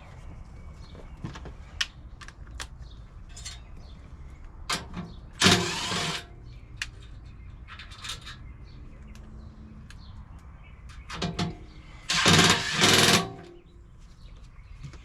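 Tools and parts being handled during blower motor work: scattered clicks and knocks with two brief louder noisy bursts, one about five and a half seconds in and a longer one about twelve seconds in, over a steady low hum.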